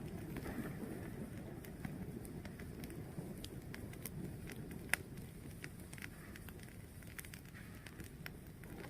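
Wood fire burning with a steady low rumble and scattered crackles, including one sharper pop about five seconds in.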